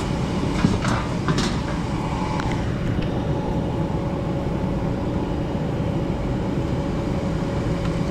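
Gas furnace running in heat mode: steady rushing and rumble of the ECM blower motor and airflow, with a faint constant hum. A few sharp clicks about a second in.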